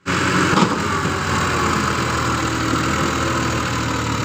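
A power tiller's engine running steadily, with a fast even beat.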